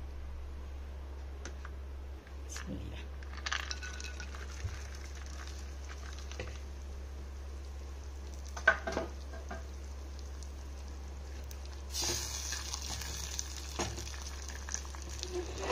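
Sliced almonds and other dry fruit frying in hot ghee in a steel saucepan: scattered clinks, one sharp clink about nine seconds in, then from about twelve seconds a sizzling hiss with scraping as a silicone spatula stirs them. A steady low hum runs underneath.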